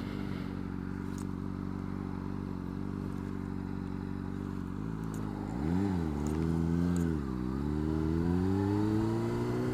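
2009 Honda CBR600RR's inline-four engine idling steadily. Then, about five seconds in, it is revved up and down twice before the revs climb steadily as the bike pulls away. It is a careful clutch-and-throttle take-off that came close to stalling.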